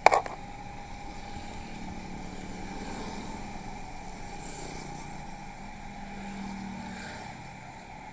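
A single sharp knock right at the start, like a microphone being bumped, then the steady hum of a public-address system and hall, with a faint held tone.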